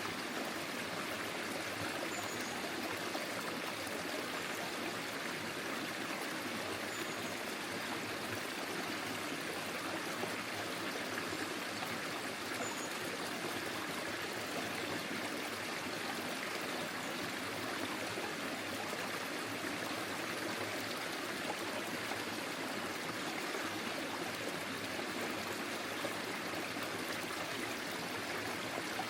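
Forest stream flowing steadily: an even, unbroken rush and trickle of water.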